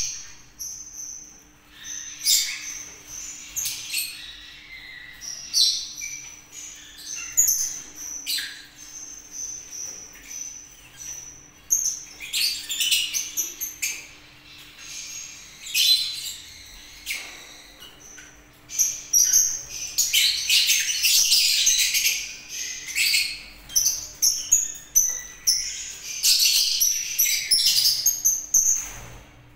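Cage birds chirping: many quick, high chirps in clusters, busiest in the second half, over a faint steady hum.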